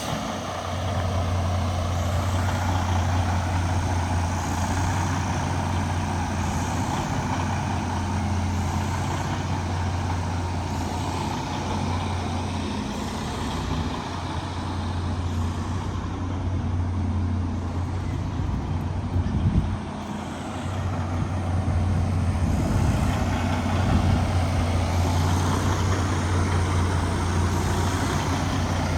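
Detroit DD16 inline-six diesel of a heavy truck idling steadily, with a brief sharp knock about two-thirds of the way through.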